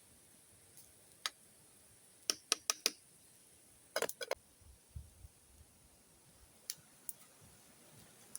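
Scattered sharp clicks and snaps: a single one, then a quick run of four, a tight cluster about four seconds in, and two more near the end.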